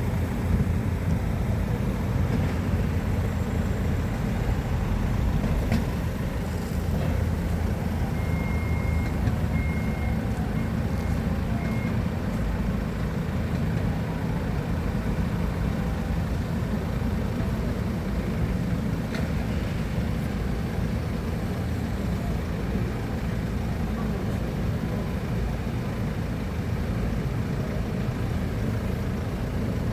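Heavy equipment engine running steadily, with a short series of high reversing-alarm beeps about eight to twelve seconds in.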